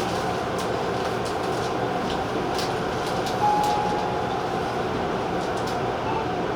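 Tobu TJ Liner electric train running at speed, with a steady rumble and faint scattered clicks. About halfway through, a brief single-pitched tone sounds for a second or so.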